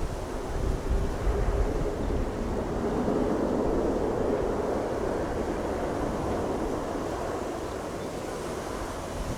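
Jet airliner on approach, a steady rushing roar that swells and then eases, mixed with strong gusting wind buffeting the microphone.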